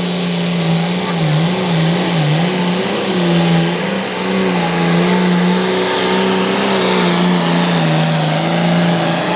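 Turbocharged diesel engine of a Limited Pro Stock pulling tractor run wide open under load as it pulls the sled down the track; its pitch dips and wavers a few times between about one and two and a half seconds in, then holds steady.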